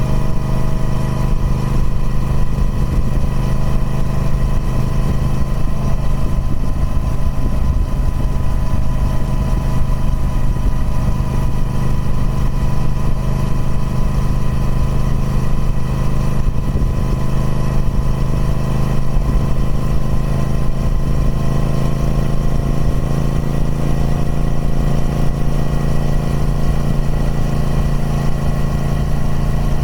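Triumph Speed Twin 1200's 1200cc parallel-twin engine running through its stock exhaust at a steady engine speed, the note slowly rising over the second half.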